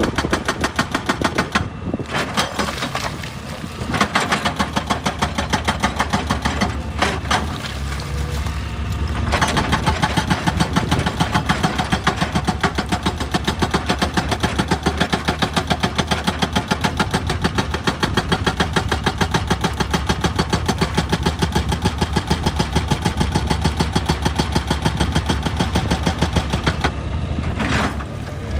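Excavator's diesel engine running hard with a rapid, even pulsing, easing briefly a few times.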